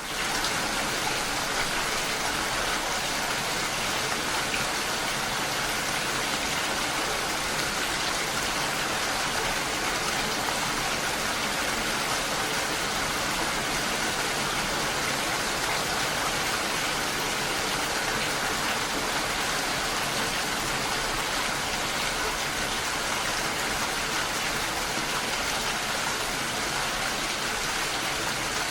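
Steady rainfall, a dense even patter of drops falling on leaves and surfaces, with no let-up.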